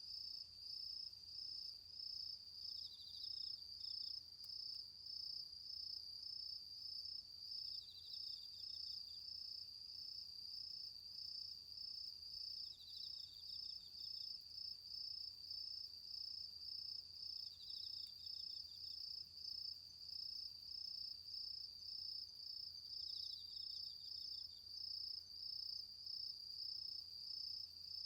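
Autumn night insects singing: one cricket-like insect keeps up a steady, pulsing high trill, while a second gives a short chirping phrase about every five seconds.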